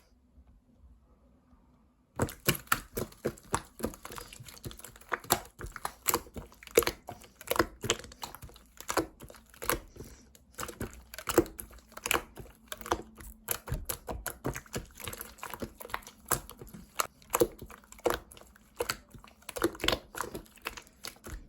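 Slime being squeezed and poked by hand, giving a dense, irregular run of small sticky clicks and crackles. It starts about two seconds in, after a short near-silent pause.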